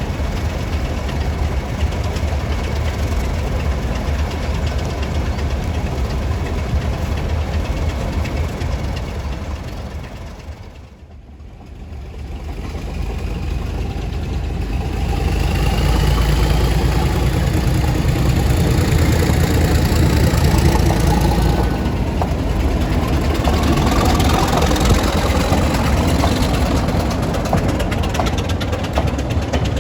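Heritage diesel locomotive engine running with a steady low sound. It fades out briefly about 11 seconds in, then comes back louder with a rising whine as the engine works harder.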